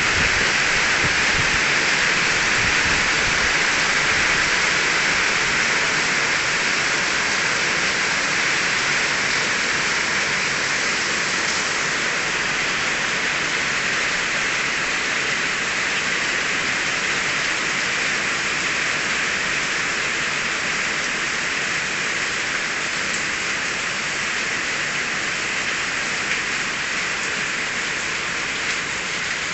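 Heavy rain falling steadily: a dense, even hiss that eases a little toward the end.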